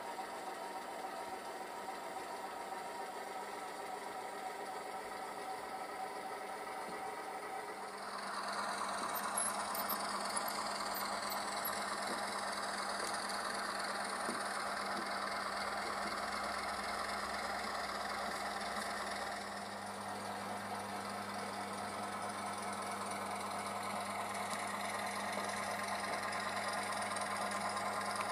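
Diesel engine sound of an H0 model Köf II shunting locomotive, played through its ESU LokSound decoder and small speaker. It idles with a steady knocking throb, then about eight seconds in grows louder and fuller as the engine sound revs up, and changes pitch again later on.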